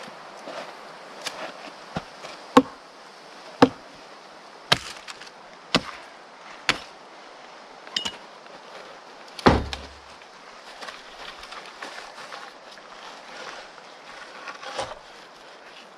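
A series of sharp chopping knocks, about eight of them at an uneven pace of roughly one a second, with a heavier blow and a dull thud near the end of the run.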